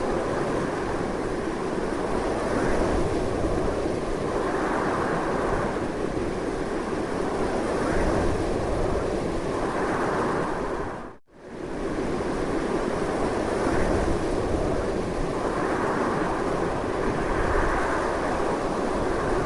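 Strong, steady wind in slow swells. A little over halfway through it drops out almost to silence for a fraction of a second and comes straight back, like a splice in a looped recording.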